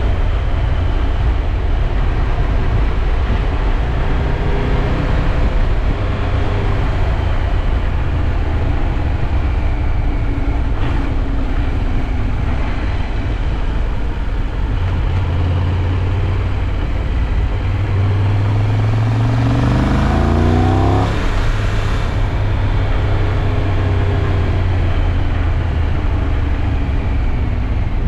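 Triumph Tiger 1200 Rally Pro's three-cylinder engine running on the move under loud, steady wind and road noise. About two-thirds of the way through, the engine pitch climbs sharply as the bike accelerates.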